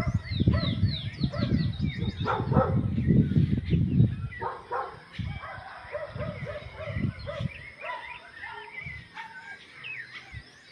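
Wild birds singing and chirping, with repeated high, downward-sliding notes and lower chirps. Heavy low rumbling noise with some louder thuds or calls covers the first four seconds or so, then dies away, leaving the birdsong clearer.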